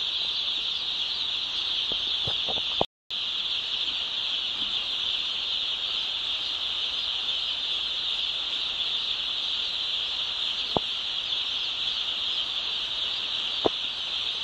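A large flock of chickens in a poultry farm, keeping up a dense, steady, high-pitched peeping chorus, with a few sharp clicks. The sound cuts out for a moment about three seconds in.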